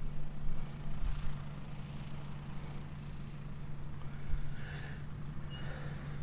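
Farm tractor and forage harvester running at a distance, a steady low engine hum.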